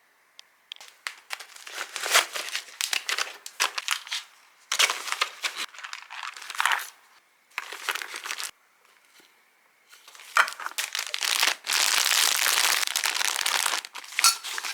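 Plastic packaging crinkling and rustling in irregular bursts as it is handled, with a longer unbroken stretch of crinkling near the end.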